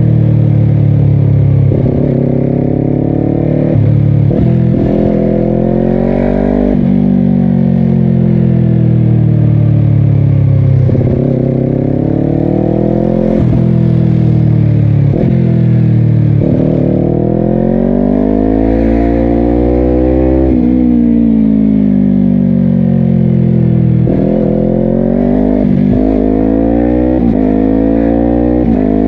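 Honda CBR250RR's parallel-twin engine through a Yoshimura exhaust, accelerating hard several times. The note climbs and cuts out for a moment at each quickshifter gear change, then falls away in long glides as the bike slows between pulls.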